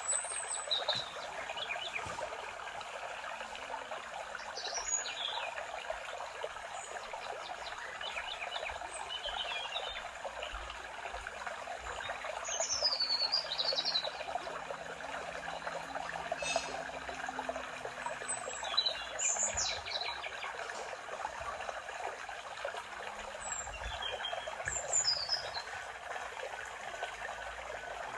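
Birds singing in a forest, short high chirps and trills every few seconds, over a steady trickling stream.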